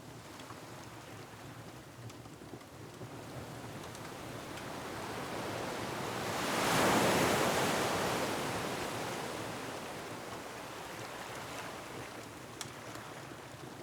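Ocean waves: a wave surges in, builds to a peak about halfway through and washes back out, over a steady surf background. A few faint crackles from a wood fire.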